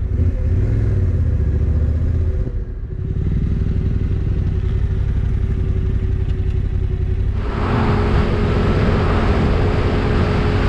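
Motorcycle engine running at road speed, with wind rushing over the microphone. It eases briefly about two and a half seconds in. From about seven and a half seconds the rushing grows louder, then cuts off abruptly at the end.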